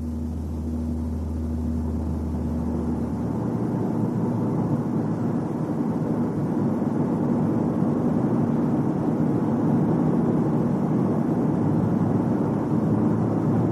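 Car in motion during a road test for a booming noise: steady road and driveline noise that builds gently as speed rises, with a low drone in the first few seconds.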